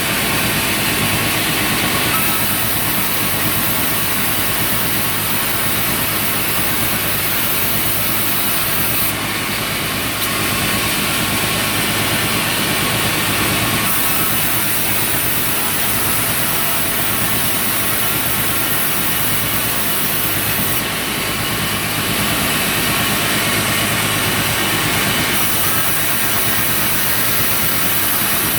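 Sawmill machinery running steadily while processing meranti kuning timber: a continuous machine hum under a harsh high hiss that comes and goes in stretches several seconds long.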